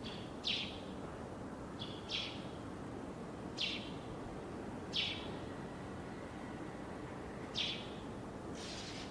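A bird calling: about six short, sharp, high calls, spaced roughly one to two and a half seconds apart, over a steady low rumble of background noise.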